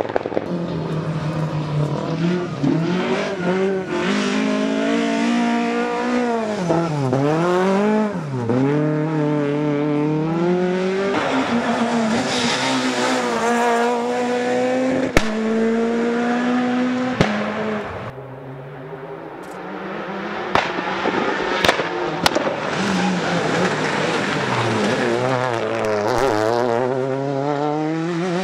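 Rally cars at full effort on a stage: engines revving hard and dropping through gear changes and braking. A few sharp cracks sound along the way. The sound fades briefly about eighteen seconds in, then builds again as another car comes on.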